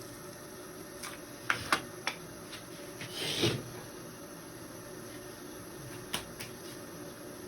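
Kitchen handling sounds: a quick run of sharp clicks and knocks, a short scrape or rustle about three seconds in, then two more clicks near the end, over a steady faint hum.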